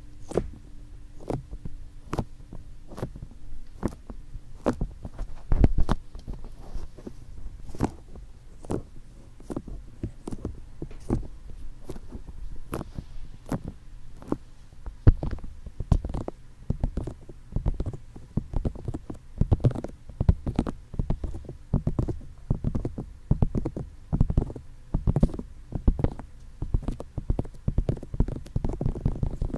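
Fingertips tapping on the ears of an ASMR microphone: a long run of soft, dull taps, irregular at a few a second, coming closer together in the second half.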